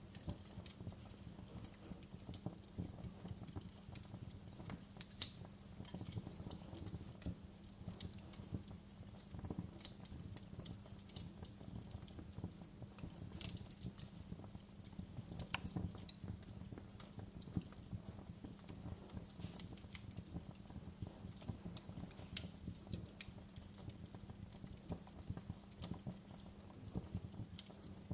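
Wood fire crackling in a fireplace: irregular sharp pops and snaps from the burning logs over a low, steady rumble.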